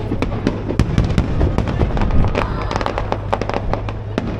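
Fireworks display: a rapid, continuous string of sharp bangs and crackles, several a second, over a steady low rumble.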